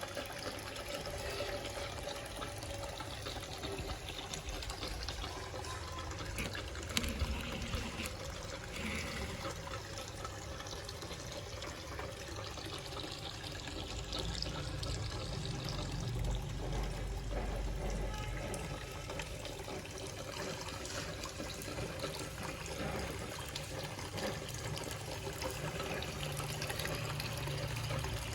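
Water from a small homemade garden waterfall fountain splashing and trickling steadily.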